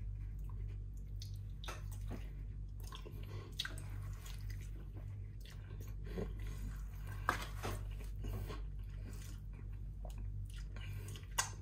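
Close-miked chewing and biting of soft, sauce-soaked grilled chicken: wet mouth sounds and small irregular clicks, over a steady low hum.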